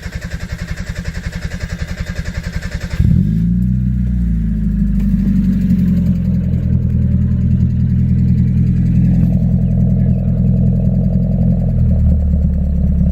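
A 1991 Mazda Miata's 1.6-litre four-cylinder engine, on a newly fitted replacement exhaust, cranks on the starter for about three seconds. It catches with a sudden jump in loudness and a brief flare in pitch, then settles into a steady idle whose note drops lower near the end.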